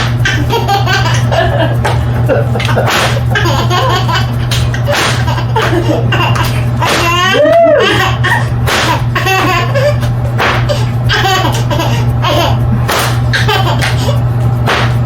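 A handmade whip cracked again and again, each a sharp crack, with a baby laughing at the cracks and one long squeal rising and falling about halfway through.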